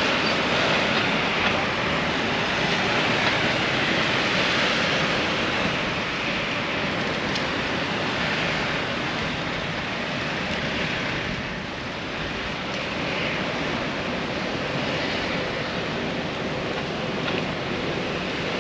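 Steady city street ambience: a continuous hiss and rumble of passing traffic, swelling and easing slightly without any single distinct event.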